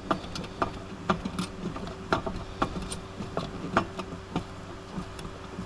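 Scattered small clicks and taps of hand tools and plastic headlight parts being handled while a screw on the headlight assembly is tightened, over a steady low hum.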